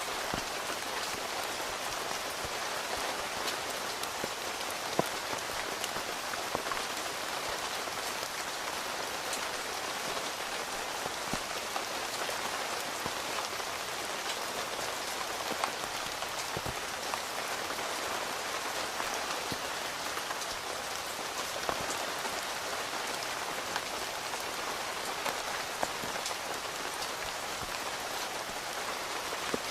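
Steady rain falling on a tent's fabric: a constant even patter, with single heavier drops landing as sharp taps every few seconds.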